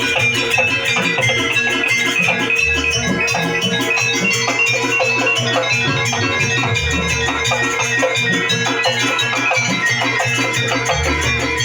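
Live jaranan ensemble music: fast, evenly repeating drum and metal percussion strokes over a steady held tone and a high melody, with a deep low stroke about every four seconds.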